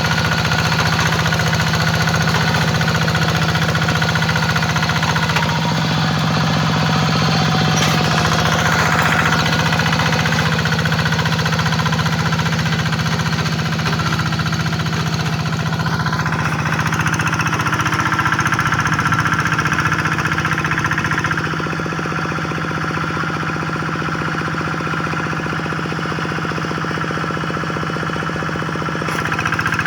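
Hand tractor's single-cylinder diesel engine running steadily under plowing load with a rapid knocking beat; it eases off a little about two-thirds of the way through and picks up again near the end.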